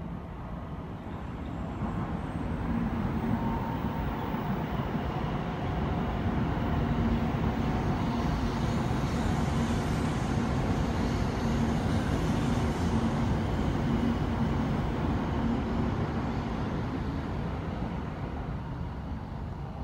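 An E2 series Shinkansen train passing. A steady rush of rolling noise builds over the first couple of seconds, holds with a low steady hum through the middle, and fades over the last few seconds as the rear cars go by.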